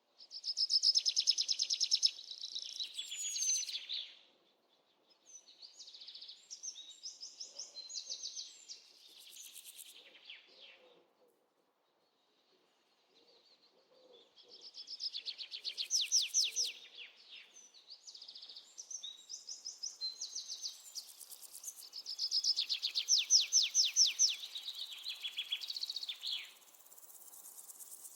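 Small birds singing: phrases of rapid, high chirps and trills, each lasting a few seconds, separated by short pauses, with a brief silence about eleven seconds in.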